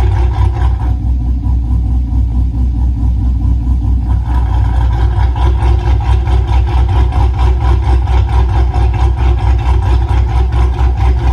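Car engine idling through a valvetronic exhaust, a steady deep rumble with an even pulse and no revving. About four seconds in, the sound becomes fuller and brighter.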